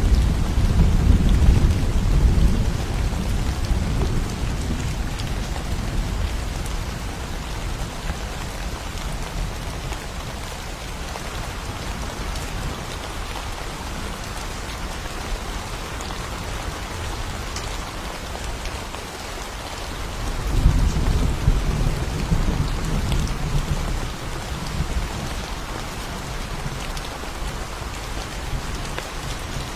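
Steady rain with rolling thunder. One deep rumble is fading over the first few seconds, and a second roll of thunder builds about two-thirds of the way through, then dies away.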